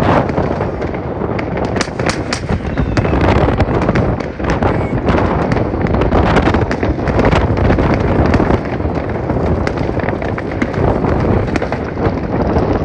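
Many fireworks and firecrackers going off at once. The bangs and crackling run on without a break, with many sharp cracks standing out.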